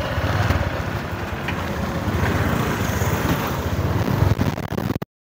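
Motor scooter engines running, a steady low pulsing rumble. It cuts off abruptly to silence near the end.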